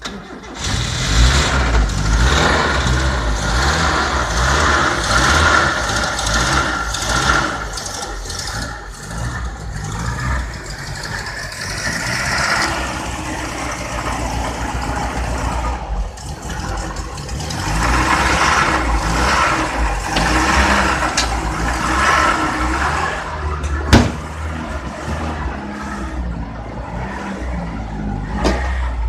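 Old car's petrol engine, converted to run on LPG, starts suddenly and keeps running. The revs rise and fall in swells, and there is one sharp knock near the end.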